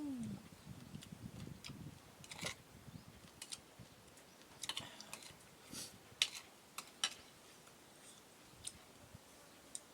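Close-up eating sounds: irregular crisp clicks and crunches of someone chewing papaya salad, with a few louder crunches, one about two and a half seconds in and one about six seconds in.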